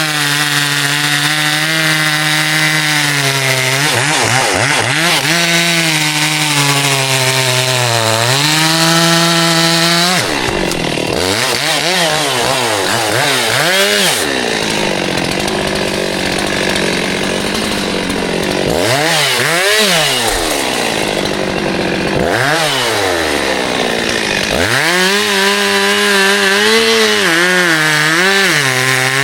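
Two-stroke chainsaw running hard and cutting wood. Its engine note holds steady for the first several seconds, falls and rises again and again through the middle as the saw is loaded and throttled, and settles back to a steady note near the end.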